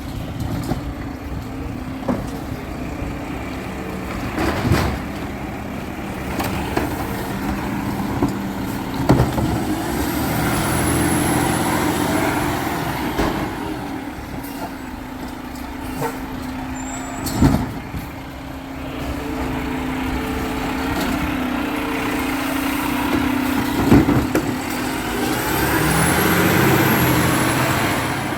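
Garbage truck engine running steadily, with a whine that swells twice and several sharp clanks.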